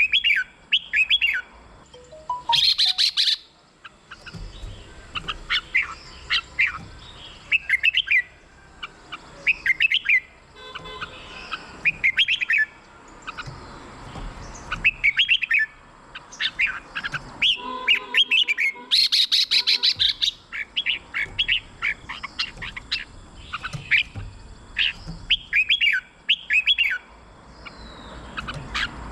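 Red-whiskered bulbul song: short, bright, chirping whistled phrases repeated over and over, with twice a rapid rattling burst, about two and a half seconds in and again near nineteen seconds.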